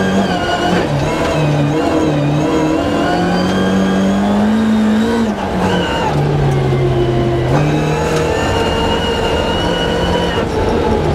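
Rally car engine heard from inside the car, revving up and down under hard acceleration on a snowy stage. Its pitch climbs steadily to a peak about five seconds in and drops sharply, then steps up again about two seconds later and falls back near the end, like shifts through the gears.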